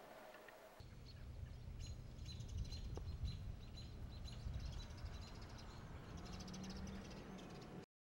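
Small birds chirping repeatedly over a low, steady rumble of wind or outdoor background noise, cutting off abruptly at the very end.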